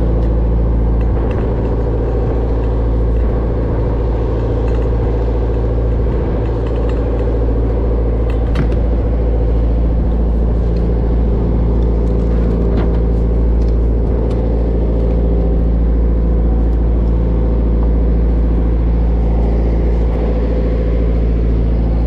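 A bottom-trawl fishing boat's diesel engine running steadily, a constant deep drone with a low rumble.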